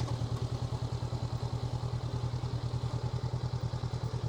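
Honda NX500's 471 cc parallel-twin engine running at low, steady revs, with an even, rapid pulse from the exhaust.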